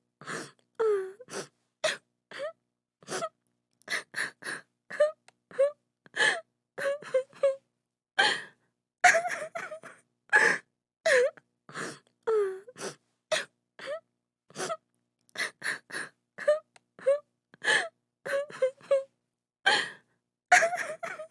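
A woman crying: short sobbing gasps and whimpering cries in quick succession, a few per second, with brief silences between them.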